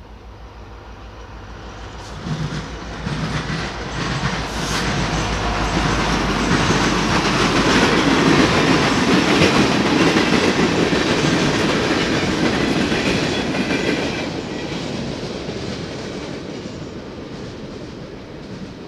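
A short train passing at speed, led by an EMD SD70M-2 diesel locomotive with a few tank cars behind. The locomotive's diesel engine drones low as it passes in the first few seconds, then the cars' wheels rumble and clatter on the rails with a few sharp clicks. The sound peaks about halfway through and fades as the last car goes by.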